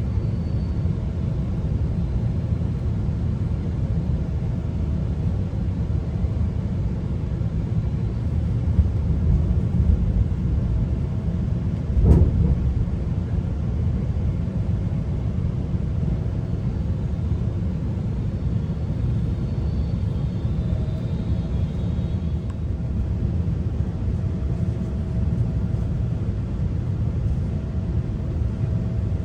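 GO Transit commuter train running along the line, heard from inside a passenger coach: a steady low rumble with a faint hum above it, and one sharp knock about twelve seconds in.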